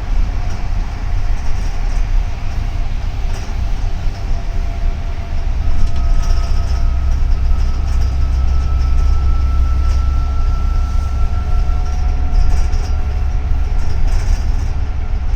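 Double-decker city bus driving, heard from inside: a steady low engine and road rumble that grows louder about six seconds in, with a faint high whine held through the middle.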